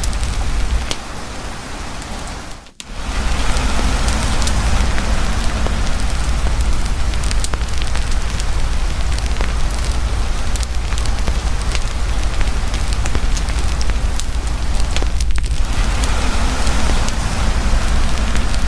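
Heavy rain falling steadily together with a campfire crackling, with sharp pops scattered throughout. The whole sound fades and briefly cuts out about three seconds in, then comes back at full level.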